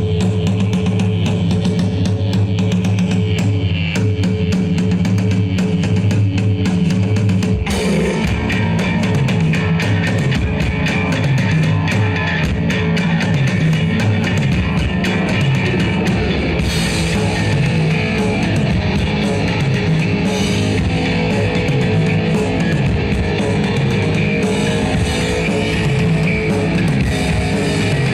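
Live blackened punk band playing loud: distorted electric guitars and bass over a fast drum kit, with no vocals yet. About seven and a half seconds in, the drums come in fuller and the band goes into a faster, denser part.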